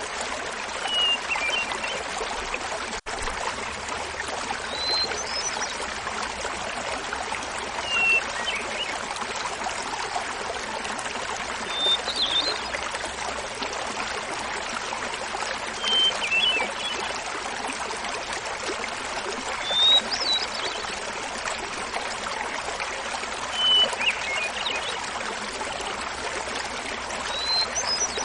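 Hermit thrush singing over the steady rush of a small waterfall: a phrase about every four seconds, each a held opening note followed by a quick flute-like flourish, each phrase at a different pitch.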